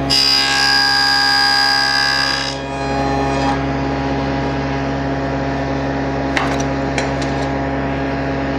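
SawStop table saw blade spinning steadily, cutting through a wooden workpiece with a loud, high whine for the first couple of seconds of a box-joint pass, then running free. A few sharp clicks come around the middle.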